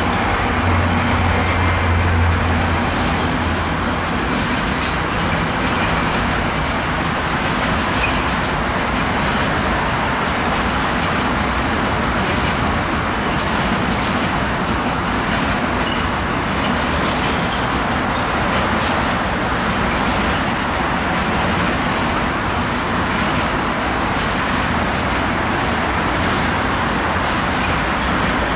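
Freight train of road trailers pulled by a Siemens Vectron electric locomotive passing. A low hum is heard over the first couple of seconds as the locomotive goes by, then the steady rolling noise of the wagons' wheels on the rails, with faint repeated clicks.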